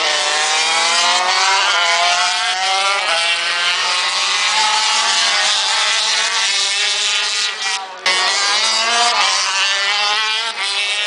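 Several MotoGP race bikes' 800 cc four-stroke engines running at high revs together, their pitches rising and falling as they shift and pass. The sound breaks off sharply for a moment about eight seconds in.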